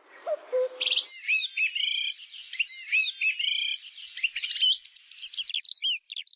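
Birdsong: several birds chirping and trilling in quick, high phrases, one repeating the same warbled phrase, with a lower call in the first second. It cuts off suddenly near the end.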